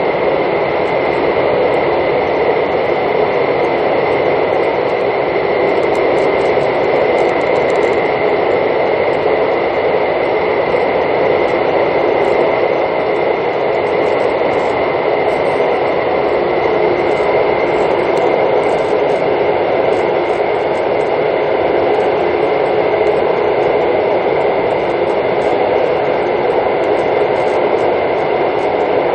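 Mugunghwa-ho passenger train running, heard from inside the carriage: a loud, steady rumble of wheels on the rails with a constant high tone through it.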